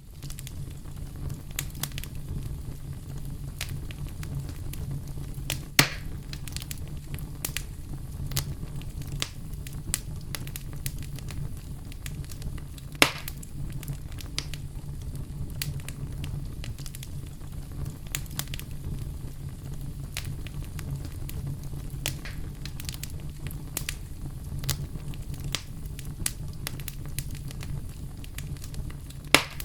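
Bonfire burning: a steady low rumble under constant crackling of burning wood, with a few louder pops about six seconds in, around thirteen seconds and near the end.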